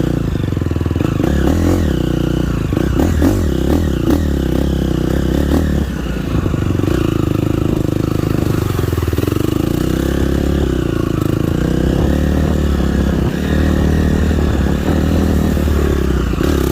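Dirt bike engine running at low, varying revs while being ridden slowly, its pitch rising and falling. Several sharp clattering knocks come in the first few seconds.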